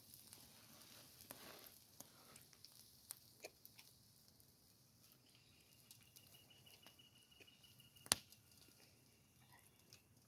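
Near silence with faint scattered taps and clicks, and one sharper click about eight seconds in.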